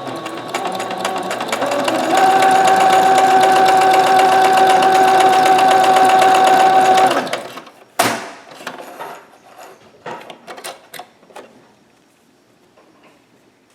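Singer Ingenuity electric sewing machine stitching a pattern in a fast, even rhythm with a steady motor whine. It speeds up about two seconds in and stops about seven seconds in, now sewing normally with its hook timing readjusted. Then comes a sharp click and several lighter clicks and taps.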